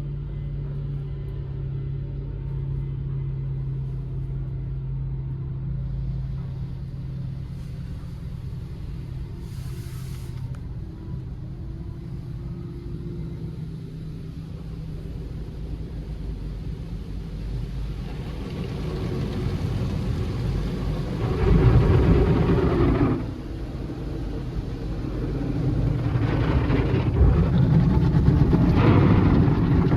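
Automatic tunnel car wash heard from inside the car's cabin: a steady low hum of the car and wash machinery, then louder, noisier washing sound builds about two-thirds of the way through, with a loud burst lasting a second or two and a further rise near the end.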